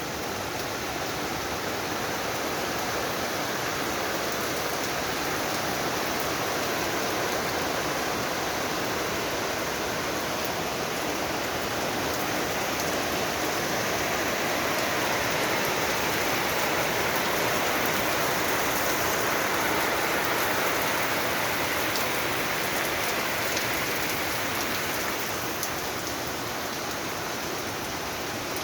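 Steady rain falling, a little heavier in the middle before easing back.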